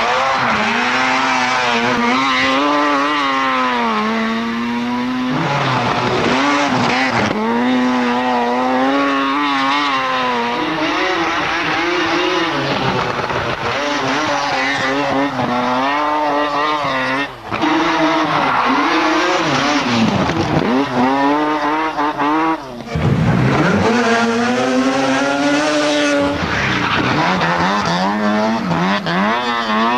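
Mazda RX-7 Group B rally car's 13B rotary engine running hard under load. Its pitch climbs and falls again and again through gear changes and throttle lifts, with a few brief sharp cuts in the sound.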